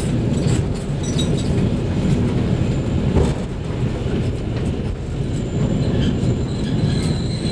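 Diesel railcar running along the Miki Railway line: a steady low rumble of engine and wheels on the rails, with a few light clicks from the track.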